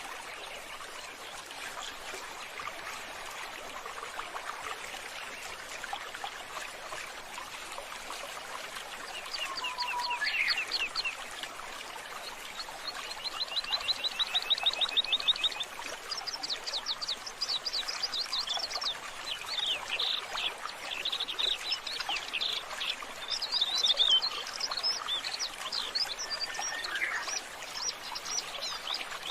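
Water trickling steadily, with small birds chirping and trilling from about nine seconds in, including a fast run of even notes near the middle.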